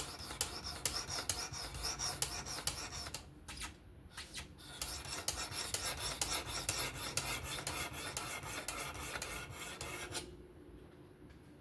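Knife blade stroked quickly back and forth along a sharpening stone on a fixed-angle sharpener, a steady rasping scrape, with a short break about three seconds in and stopping about ten seconds in. Light-pressure strokes refining the edge.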